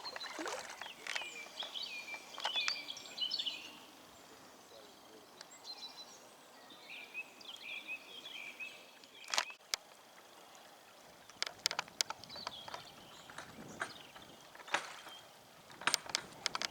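Small birds singing, with quick chirping phrases early on and again midway. Several sharp clicks follow in the second half.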